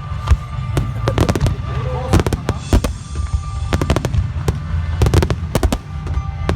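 Fireworks bursting in a dense run of sharp bangs and crackles over a constant deep rumble. Voices and music are heard faintly beneath.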